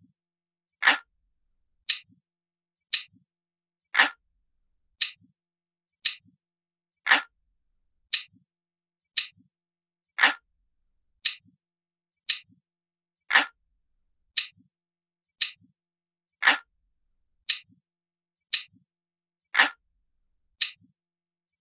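Glass-like clock ticking sound effect: a crisp, sharp tick about once a second, with every third tick louder and fuller.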